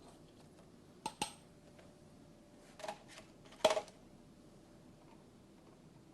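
Metal tools clinking: a few sharp clinks and clatters about one, three and nearly four seconds in, the last the loudest.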